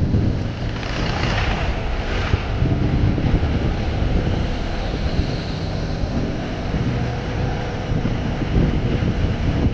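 Vehicle driving on a road, with a steady low engine and road rumble and wind buffeting the microphone. A brief hiss rises about a second in.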